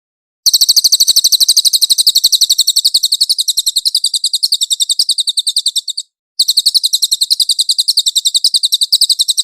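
A cililin songbird singing a long, rapid trill of evenly spaced high notes, about nine a second. It breaks off briefly about six seconds in, then starts a second trill.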